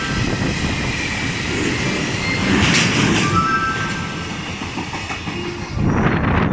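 Electric train running along the platform track, its wheels clattering on the rails. A short high hiss comes near the middle, and the noise turns to a louder rush near the end.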